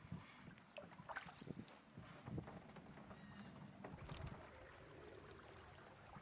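Near silence broken by a few faint knocks and soft splashes of a canoe paddle working the water.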